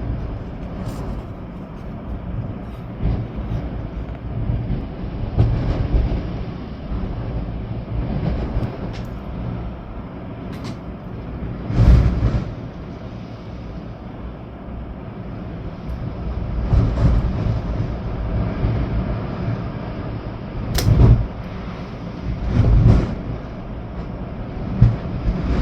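Storm wind and rain: a steady rushing noise with strong gusts buffeting the microphone in low rumbles, the hardest gusts about twelve seconds in and again near twenty-one seconds.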